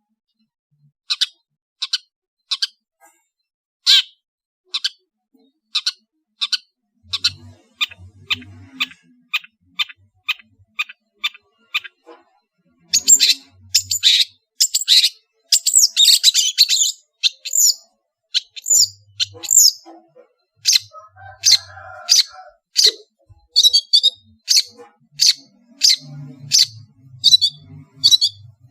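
Long-tailed shrike (cendet) singing: short, sharp, high notes repeated about once a second, breaking into a faster, busier run of varied notes around the middle, then quick short notes again.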